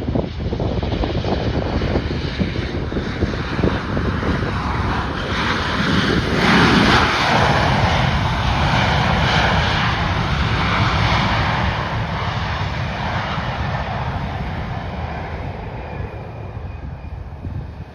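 Passenger aircraft engines passing close by: the noise swells to its loudest about six to seven seconds in, holds, then fades away toward the end.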